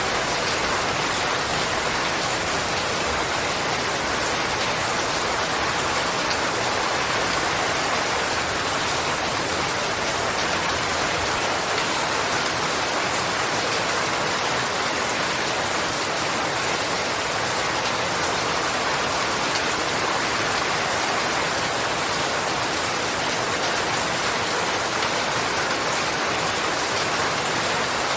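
Steady, heavy rainfall: an even hiss of drops on surfaces with no pauses or changes.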